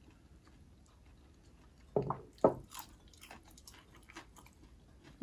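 A person biting into crispy fried tofu, two loud bites about two seconds in, then chewing with faint crunching.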